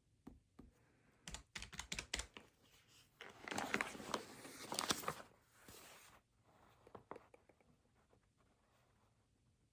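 Keys tapped in quick runs: a burst of clicks, then about three seconds of dense, rapid clattering, then a few scattered taps.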